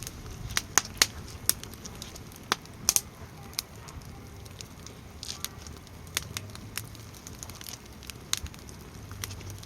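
Wood campfire crackling in a small camping fire pit: irregular sharp pops and snaps, the loudest ones in the first three seconds.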